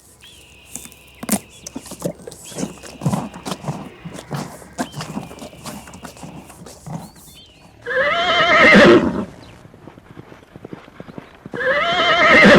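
Horse hooves clip-clopping in an uneven series of knocks, then a horse whinnying loudly twice, each a wavering call about a second long, the second running on past the end.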